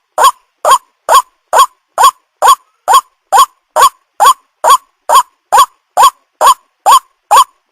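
White-breasted waterhen (ruak-ruak) calling: a short, hooked note repeated evenly about twice a second.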